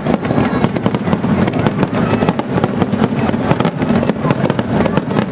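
Fireworks crackling: a dense, continuous run of sharp pops and cracks with no single large burst standing out.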